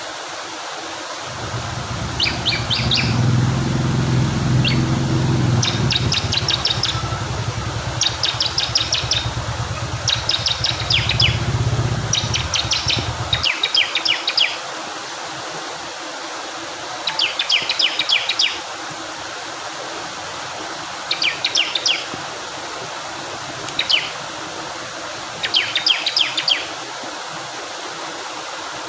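Bar-winged prinia (ciblek kristal) singing in short bursts of rapid, high repeated notes, about ten phrases, over a steady rush of flowing water. A low rumble sits beneath the first half and stops about halfway through.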